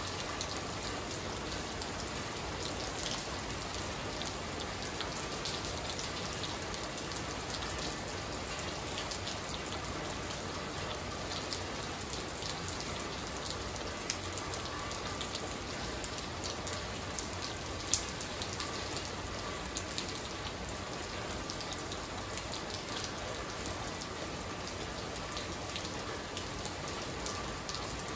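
Steady rain falling on a wet tiled patio, with individual drops striking close by as scattered sharp ticks and a few louder hits.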